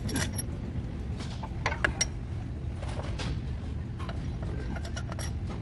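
Scattered, irregular clicks and light knocks over a steady low hum.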